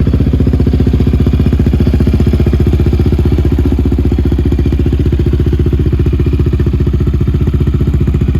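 Yamaha Raptor 700 ATV's single-cylinder engine idling steadily.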